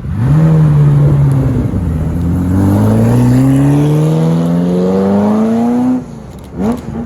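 Supercar engine accelerating hard: a sharp rev at the start, then a long steady climb in pitch as it pulls through a gear. About six seconds in it drops off briefly at a gear change and then rises again.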